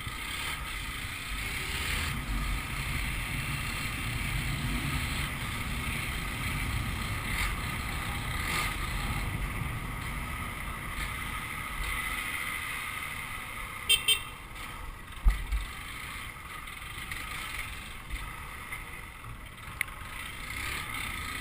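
A Honda CG 150 motorcycle being ridden, heard through a hissing microphone: steady wind and road noise over the engine. Two brief sharp knocks come about two-thirds of the way through.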